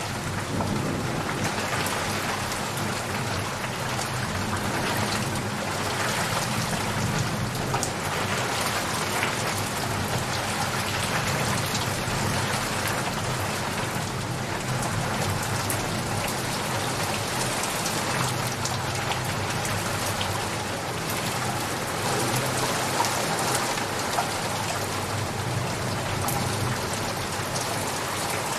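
Steady rain falling, with many small drop impacts in a constant hiss.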